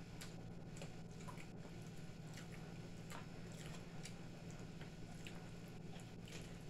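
Faint close-up eating sounds: chewing and squishy mouth noises with scattered small clicks of food and utensils being handled, over a steady low hum.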